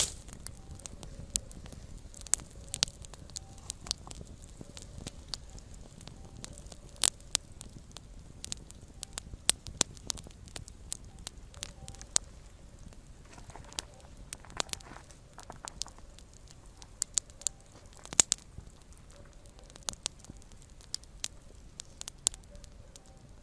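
Small wood campfire crackling, with irregular sharp pops and snaps over a low steady rumble of burning, and a short stretch of hissing about two-thirds of the way through.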